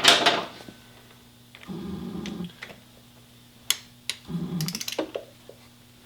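Clicks and metal knocks of a torque wrench tightening a motorcycle gearbox fill plug to 23 Nm, with two short low buzzy sounds a couple of seconds apart over a faint steady hum.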